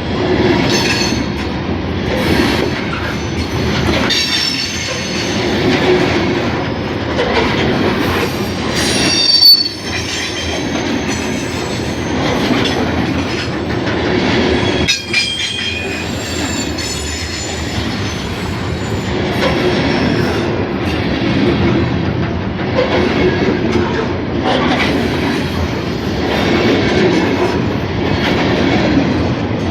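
Norfolk Southern grain train rolling past close by, its cars clacking over the rail joints in a steady run. Wheel squeals rise above it about nine seconds in and again about fifteen seconds in.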